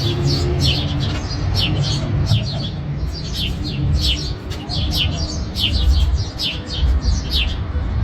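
Small birds chirping again and again, short falling chirps about two or three a second, over a steady low rumble.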